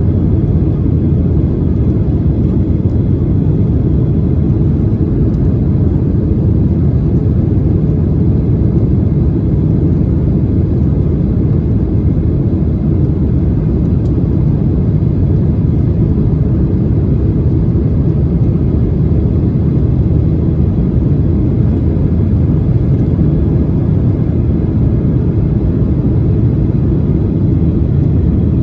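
Steady, loud rumble of a Boeing 737-800's engines and airflow heard from inside the passenger cabin. It holds an even level and pitch throughout, with no spool-up or change.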